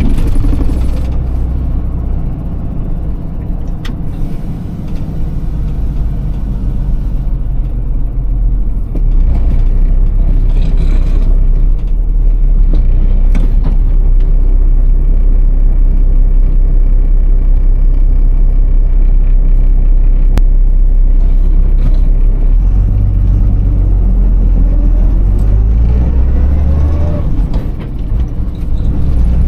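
Iveco Tector truck's six-cylinder diesel engine running under way in low-speed driving with a manual gearbox. It gets louder about nine seconds in, and its pitch rises near the end before the level briefly drops.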